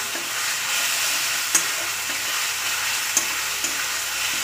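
Masala of onion, ginger-garlic-chilli paste and fresh tomato sizzling in mustard oil in a steel kadai, stirred with a spatula. A steady sizzle runs throughout, with a few sharp knocks of the spatula against the pan.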